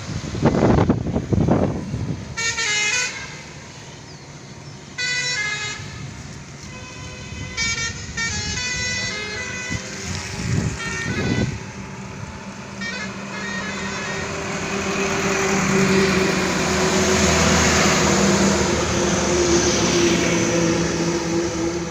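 Trucks passing on a highway: two quick pass-by whooshes, several short horn blasts in the first half, and a heavy engine with a steady low hum growing louder in the second half as another truck approaches.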